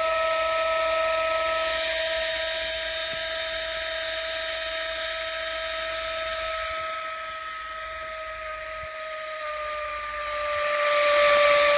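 Flextail Tiny Pump 2 mini electric air pump running with a steady high whine that starts abruptly. Its pitch sags slightly, and it gets quieter partway through, then louder again near the end.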